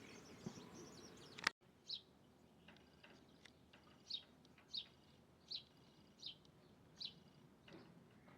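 A bird calling in short, separate chirps, about six of them spaced under a second apart, after a sharp click a second and a half in. Before the click, fainter chirping sits over a steady background hiss.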